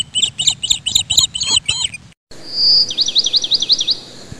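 Birdsong: a fast run of repeated chirping notes that breaks off abruptly about two seconds in. After a brief gap comes a different phrase, a clear whistle followed by a quick series of rising-and-falling notes.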